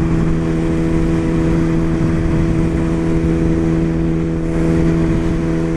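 BMW S1000RR inline-four engine running at steady revs, a constant-pitched drone with no rise or fall.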